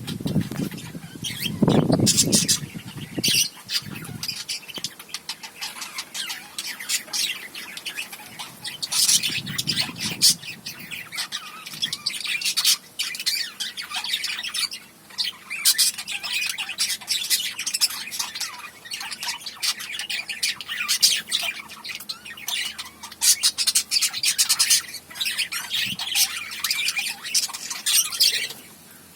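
Small pet parrots chattering with rapid, high-pitched chirps and squawks. A low rumbling noise comes in about two seconds in and again around ten seconds.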